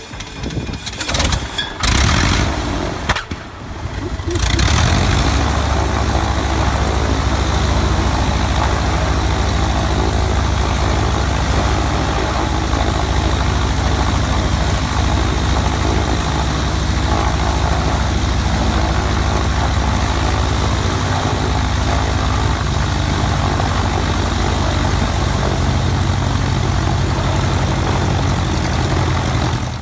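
An old engine starting: a few seconds of uneven cranking and firing, then catching about four seconds in and running steadily with a deep, even low rumble, until it cuts off suddenly at the end.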